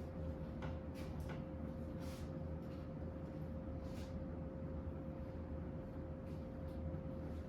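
Murray Feiss ceiling fan running on high speed: a steady motor hum with a constant tone, and irregular light clicks. The clicking is the noise the owner links to a broken blade he has partly fixed.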